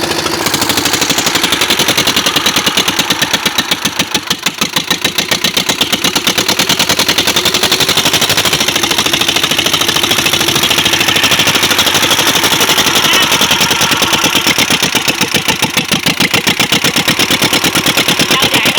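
Eicher two-cylinder diesel engine running steadily, an even, rapid run of firing pulses, dipping slightly in loudness about four seconds in.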